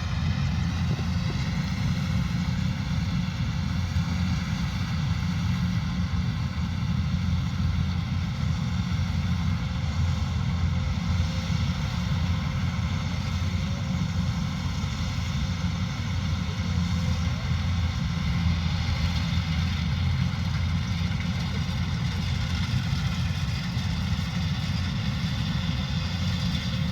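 Kubota DC105X combine harvester running steadily: a constant low engine rumble with a high machinery whine over it.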